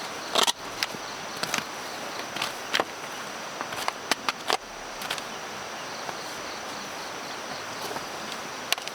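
Steady chorus of insects, such as crickets or cicadas, with one high held tone. Scattered sharp knocks and clicks cut through it, the loudest about half a second in and again around four seconds in.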